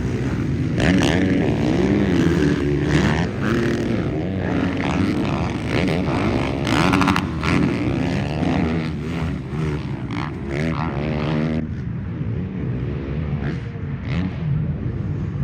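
Several motocross dirt bikes racing on the track, their engines revving up and down through the gears as they pass. The sound turns duller about twelve seconds in.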